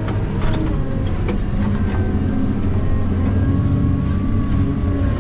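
Log skidder's diesel engine running steadily as the machine drives through deep snow, with a few brief knocks and rattles.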